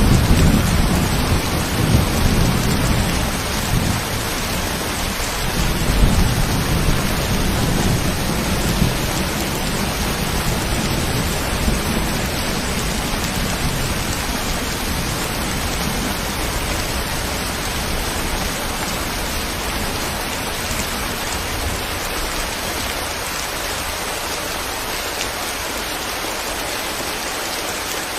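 Steady, even rain hiss, with a low rumble of thunder in the first part that dies away by about twelve seconds in.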